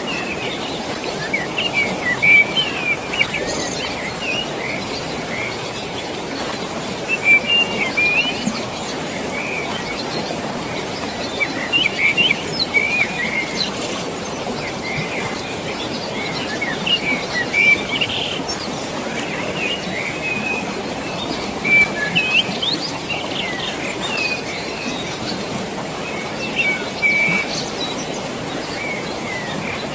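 Birds chirping in short bursts of high calls every few seconds over a steady rushing of water.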